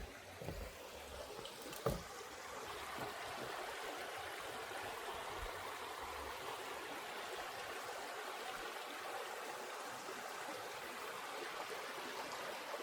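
Small stream flowing and trickling, a steady rushing that swells about two seconds in and then holds. A few short knocks come in the first two seconds, the sharpest about two seconds in.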